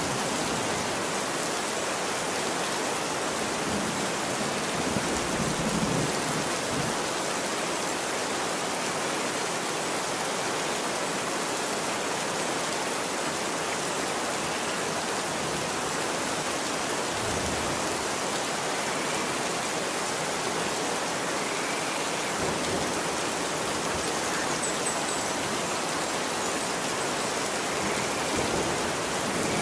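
Steady rain falling on a street: an even hiss of drops. There are a couple of brief low rumbles, about five seconds in and again near the middle.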